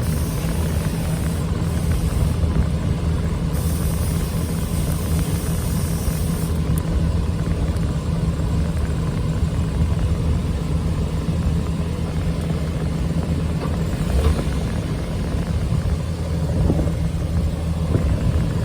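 Steady low running hum of a Suzuki Every DA64 van, unbroken at an even level. It is probably the van idling with the air-con blower running.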